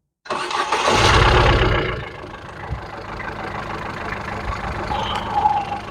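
Ford Figo petrol engine being started: it fires and runs loudly for about a second, then drops back to a steady idle.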